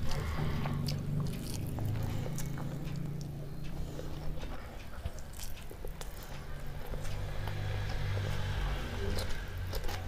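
Close-miked chewing of rice and shutki (dry fish) bharta, with many small wet mouth clicks and the soft squish of fingers mixing rice on a steel plate.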